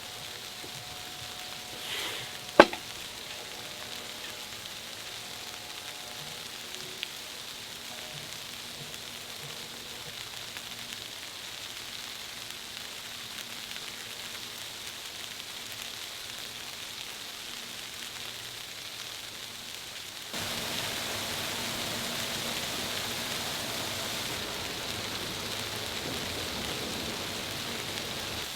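Steady hiss of falling precipitation in a snowstorm, with one sharp click about two and a half seconds in. The hiss gets abruptly louder about twenty seconds in.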